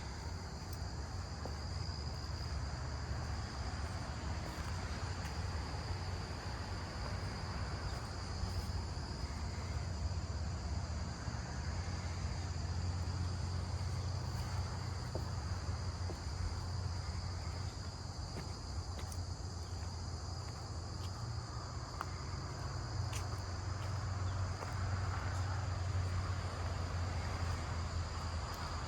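Steady chorus of insects singing, an even high-pitched buzz that holds throughout, over a low rumble and a few faint light ticks of footsteps on the trail.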